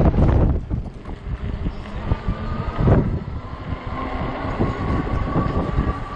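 Gusty wind buffeting the microphone of a moving e-bike, a loud low rumble with a strong gust at the start and another about three seconds in. A faint steady whine runs underneath from about two seconds in.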